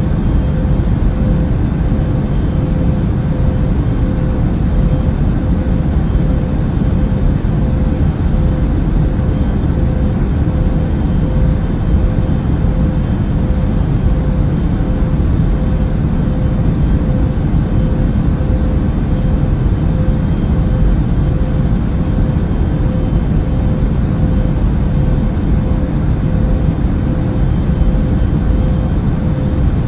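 Airbus A380 airliner in cruise flight, heard as steady cabin noise: a deep, even rumble with a faint constant hum above it, unchanging throughout.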